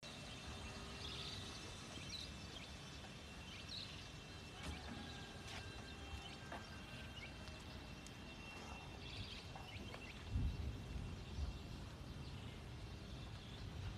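Faint outdoor ambience with scattered short high chirps and a brief low rumble about ten seconds in.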